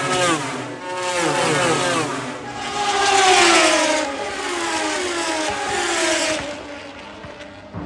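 Harley-Davidson Road Glide bagger race motorcycles at speed, engine notes rising and dipping quickly through gear changes, then one bike growing loud about three seconds in and its pitch falling away as it passes and fades.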